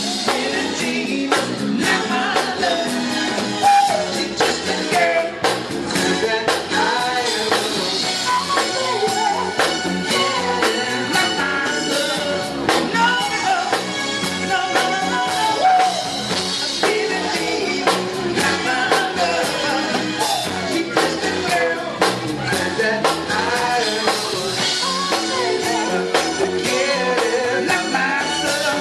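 A man singing a song over instrumental accompaniment with a steady beat.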